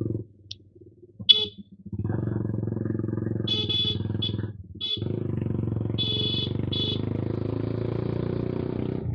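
Suzuki Gixxer motorcycle with an aftermarket SC exhaust running loudly in two long spells, dipping off briefly about halfway. Several short high-pitched beeps sound over it.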